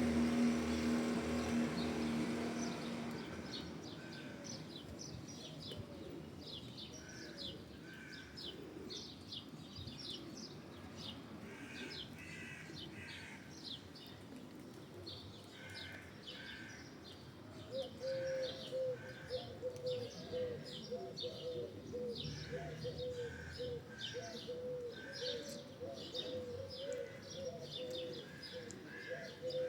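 Small birds chirping and twittering in many short, repeated calls. A low, wavering cooing joins about halfway through and carries on. A passing vehicle's hum fades out in the first few seconds.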